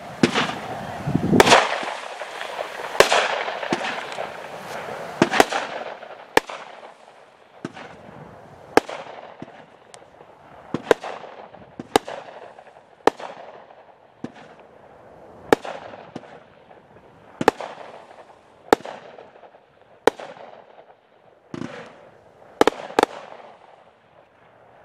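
A 16-shot 200-gram consumer fireworks cake, No Name Fireworks' Cold Crank, firing brocade crown shells with glitter. After a rushing start there are sharp bangs about once a second, each followed by a fizzing tail that fades, and a quick pair of bangs near the end.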